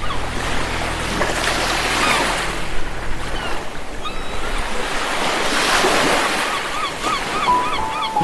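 Sea surf washing onto a beach, the wash of noise swelling and fading twice.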